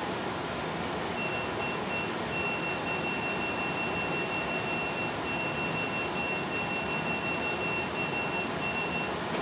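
Steady background hiss with a thin, high-pitched electronic tone sounding in a broken, stuttering string of beeps for most of the time.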